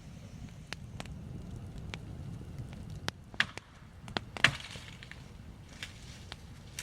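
Wood cracking and snapping: scattered light clicks and a few sharp snaps, the loudest about halfway through, over a low steady rumble.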